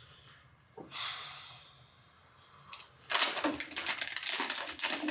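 Dense, continuous clattering of many 3D-printed plastic letter dice rattling together, starting about three seconds in, after a softer rustling thump about a second in.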